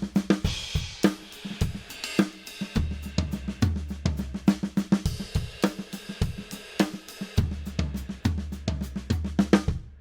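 Drum kit playing a groove: hi-hat, snare and bass drum, a cymbal crash right at the start, with right-left-left grouping-of-three fills around the toms. The playing stops just before the end.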